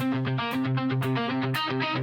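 Instrumental music: a guitar picking a quick, repeating pattern of notes.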